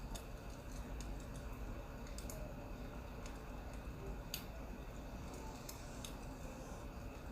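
Crackling wood fire, irregular sharp pops and snaps over a steady low hiss.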